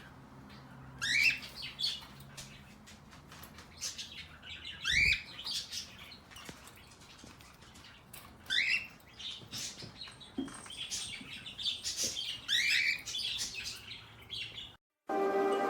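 A small pet parrot chirping: short rising calls every few seconds, with faint clicks and scratches between them. Near the end the sound cuts out and music begins.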